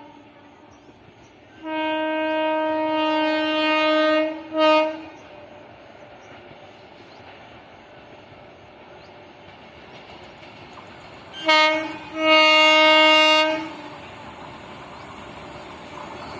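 Indian Railways locomotive horn sounding four blasts: a long one then a short one, and later a short one then a long one, over a steady train rumble.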